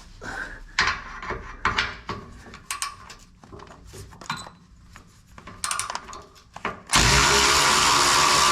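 Scattered clicks and knocks of tools and a socket being handled, then about seven seconds in an electric ratchet starts running loud and steady, spinning on a frame bolt to loosen it.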